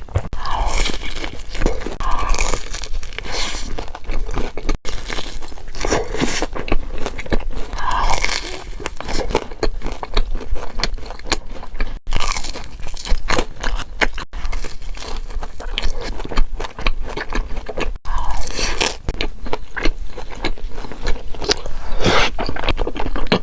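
Close-miked crunchy chewing and biting of food, dense crackles and crunches throughout, breaking off briefly and resuming several times.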